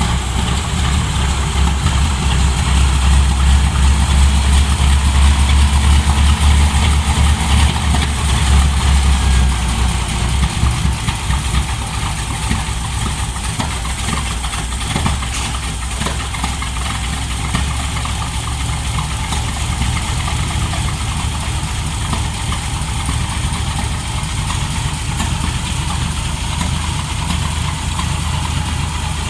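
A car engine idling with a deep, steady rumble, louder for roughly the first ten seconds and then settling to an even level.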